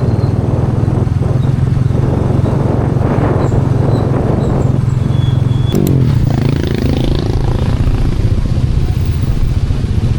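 An engine running steadily and loudly, its pitch shifting about six seconds in.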